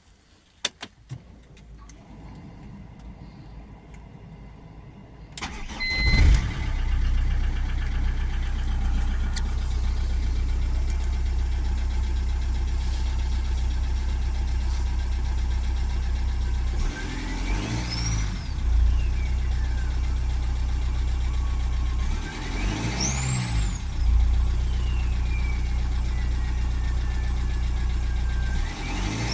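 A few clicks, then about six seconds in the BMW E46 320d's four-cylinder turbodiesel cranks and fires on a cold start and settles into a steady idle. It is revved three times, and each time a clean turbo whistle rises sharply and falls away as the revs drop; after the second rev the whistle fades slowly over several seconds.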